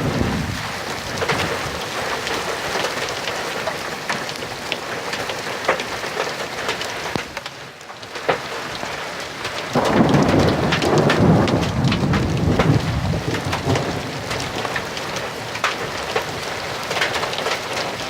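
Heavy rain falling in a thunderstorm, with many sharp separate hits of drops. A low rumble of thunder comes in about ten seconds in and lasts a few seconds, and another fades out in the first second.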